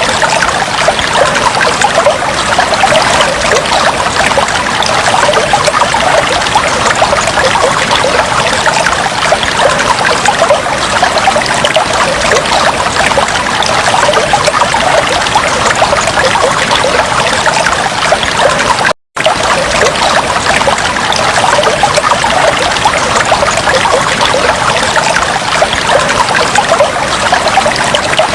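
Fish tank water trickling steadily, with many fine splashing flickers. The sound cuts out completely for a split second about two-thirds of the way through.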